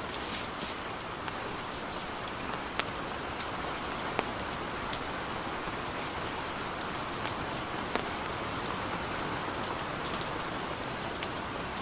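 Heavy rain falling steadily, with scattered sharper drops striking close by every second or so.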